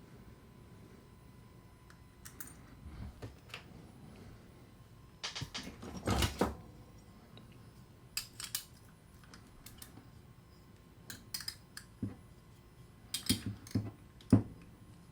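Irregular clicks and short clatters of small metal parts and tools as a star drag fishing reel is taken apart by hand. The loudest knocks come about six seconds in and again near the end.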